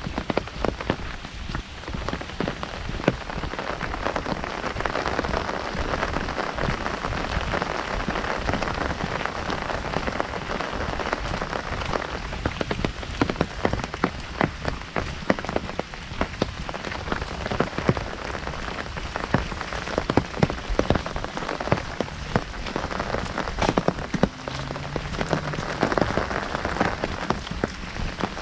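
Heavy rain falling on an umbrella held overhead: a steady dense patter with many sharper individual drop hits.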